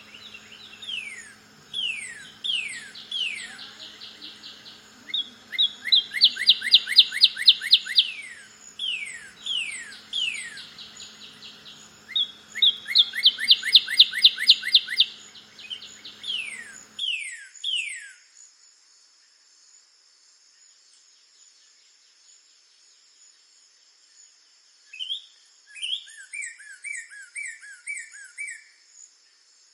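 Northern cardinal singing: loud down-slurred whistles followed by a fast trill, a phrase given twice, then after a pause a lower phrase of short two-part notes near the end. A steady high insect drone runs underneath.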